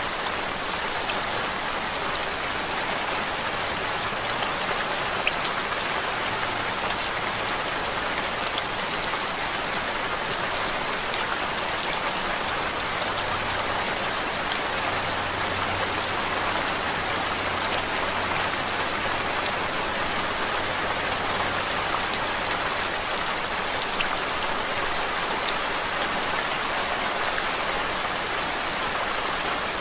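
Steady rain falling on a surface, an even hiss with scattered faint drop ticks, used as a focus white-noise track.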